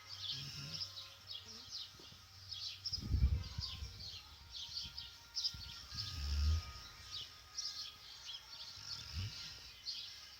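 Akita Inu snoring in its sleep: a low snore about every three seconds. Birds chirp steadily in the background.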